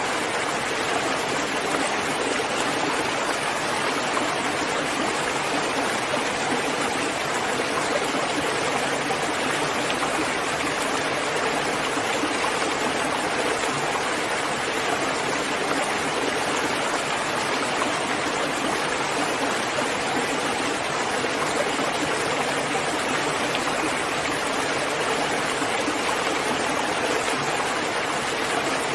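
Steady, heavy rainfall: a continuous even rushing hiss with no separate drops or gusts standing out.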